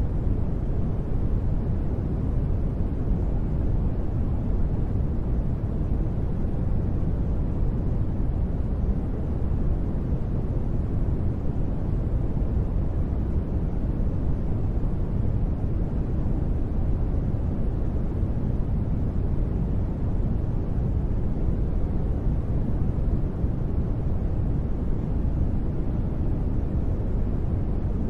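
Continuous sleep noise sold as white noise, but weighted to the low end: a deep, even rumble with little hiss, holding a steady level throughout.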